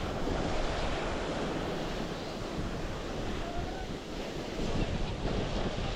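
Sea surf washing onto the beach, with wind gusting across the microphone as a low rumble.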